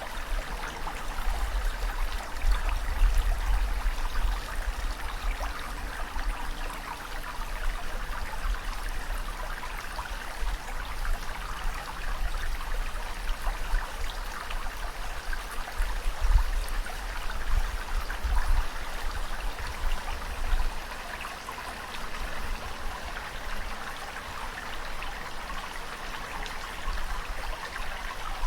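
Ocean waves washing, a steady rush of water with a low rumble that swells a few times.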